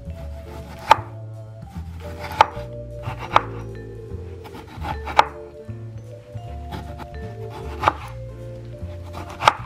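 Knife slicing and dicing tomatoes on a plastic cutting board, each stroke ending in a sharp tap on the board, about six loud taps spaced unevenly, over background music.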